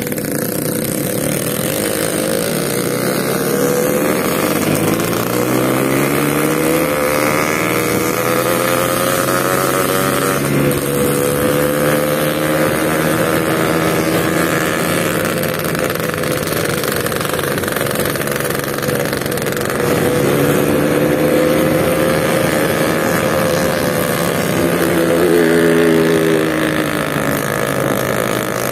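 Two-stroke Yamaha RX King motorcycle engine running under way. Its pitch climbs and drops several times as the throttle opens and closes, and there is a clear rise about three seconds in and again near the end.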